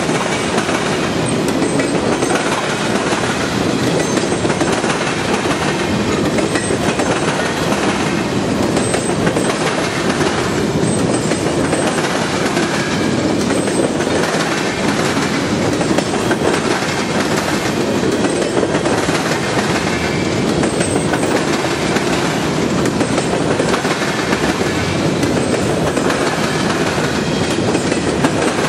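Train cars rolling past at track speed: a steady rumble with the wheels clicking over the rail joints.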